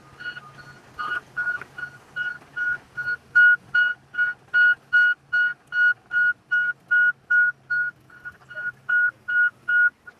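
A rapid series of high, steady-pitched beeps, about three a second, over a faint low hum; the beeps stop suddenly near the end.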